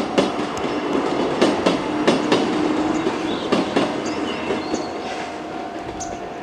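103 series two-car electric train running past, its wheels clacking over the rail joints in quick pairs as each bogie crosses, over a steady rolling rumble. The clacks thin out after about four seconds as the last cars clear.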